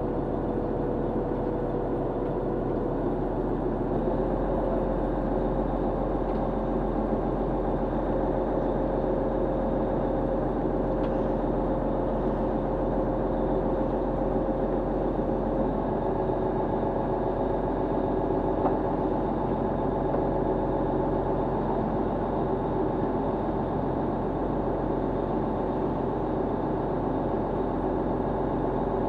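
Fishing boat's engine running steadily, its hum shifting slightly in pitch about four seconds in and again around halfway through.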